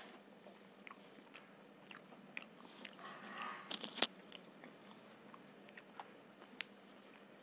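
Close-miked chewing of a mouthful of pizza: soft, scattered wet mouth clicks and smacks, with a brief rustle a little past three seconds and a sharp click about four seconds in.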